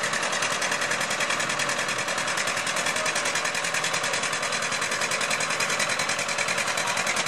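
Antique John Deere tractor engine running with a rapid, even putter.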